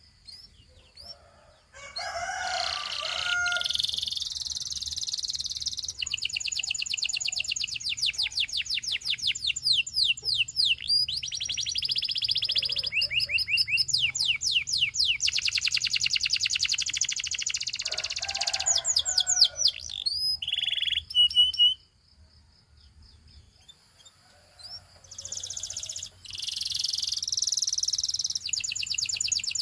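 Domestic canary singing: long rolls of rapid repeated high notes and trills, broken by a pause of about two seconds a little past two-thirds of the way through, then singing again.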